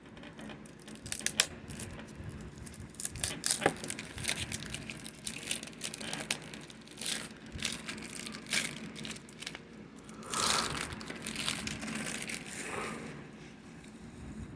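Plastic shrink-wrap being torn and peeled off a DVD case, crinkling in irregular bursts, with a denser stretch of crinkling about ten seconds in.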